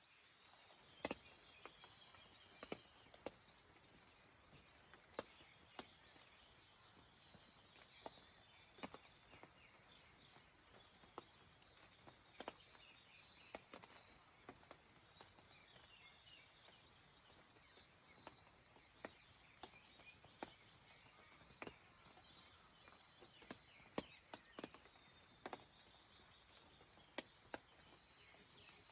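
Faint light rain with heavy drops tapping irregularly, a sharp tap every second or two, while small birds chirp high in the background.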